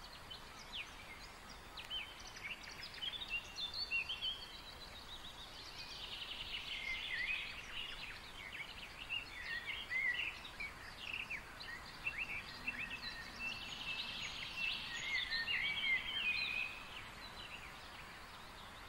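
Small birds chirping and singing: many short, quick chirps and rising and falling whistles, fairly faint.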